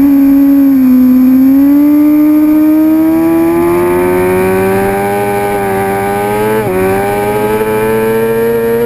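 Suzuki GSX-R750 inline-four sport bike engine under hard acceleration on a racetrack, its pitch climbing steadily as it pulls up through the revs. About two-thirds of the way in, a quick upshift briefly drops the revs before it climbs again.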